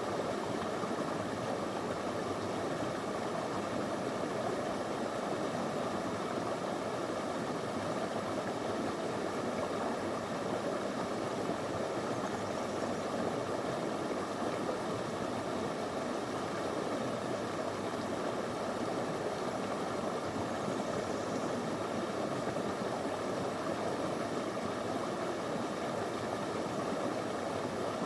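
Small, clear river running over stones, a steady, even rush of water.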